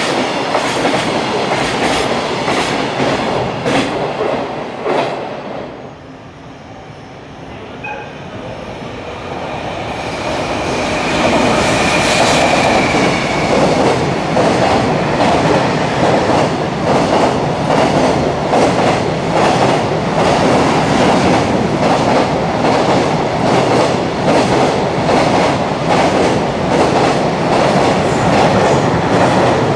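JR Freight container trains passing at speed: a steady rumble with a fast, regular clickety-clack of wagon wheels over the rail joints. The first train's sound fades about five seconds in. A second container train then builds up and runs past loudly, with a brief high whine about twelve seconds in.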